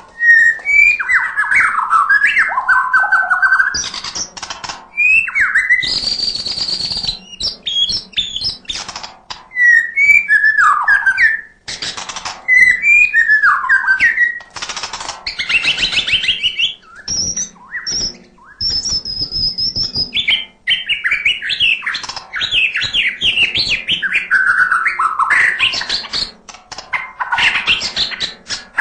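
White-rumped shama (murai batu) singing a long, varied song of quick whistled phrases, sliding notes and trills. It is broken by harsh rasping notes about 6 and 12 seconds in and by high thin whistles a little past the middle, the mimicry-filled song that shama keepers call 'isian'.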